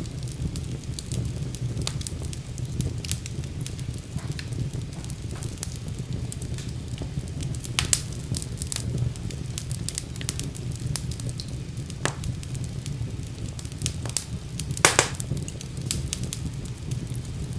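Wood fire burning in a fireplace: a steady low rumble of flames with scattered crackles and pops, a few sharper pops standing out, the loudest about fifteen seconds in.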